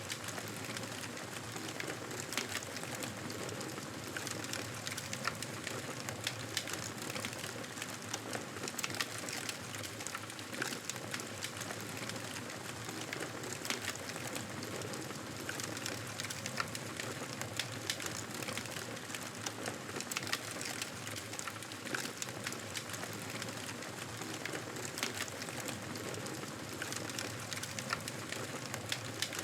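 Wood fire crackling in a fireplace: a steady hiss with irregular small pops and snaps throughout.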